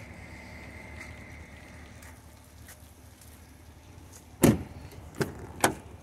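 A heavy thump about four and a half seconds in, followed by two lighter knocks, on a vehicle. A faint steady high tone sounds during the first two seconds.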